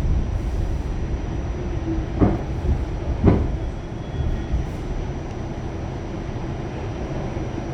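Pullman Standard R46 subway train running: a steady low rumble from the car, with two sharp clacks about a second apart a couple of seconds in.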